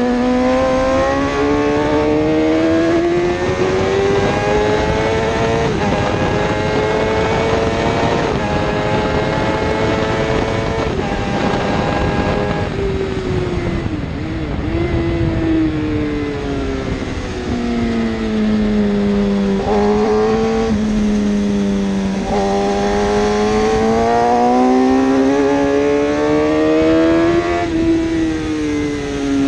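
1000cc superbike engine running hard at high revs. Its pitch climbs steadily, jumps at quick gear changes, and falls away under deceleration around the middle and again near the end.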